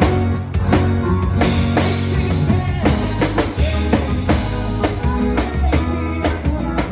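Music with a drum kit: bass drum, snare and cymbal hits over a steady bass line and pitched instruments.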